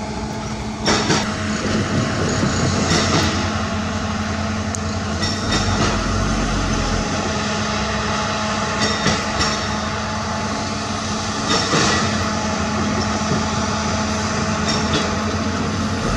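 Diesel engine of heavy earthmoving machinery running steadily, with irregular loud metal clanks and knocks, the loudest about a second in.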